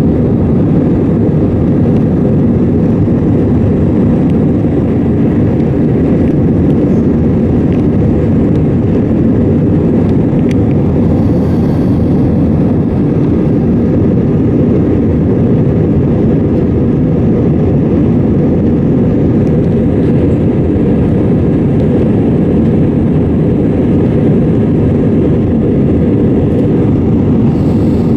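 Steady cabin noise of an Airbus A320 with its engines running: a loud, even, low roar that does not change in level.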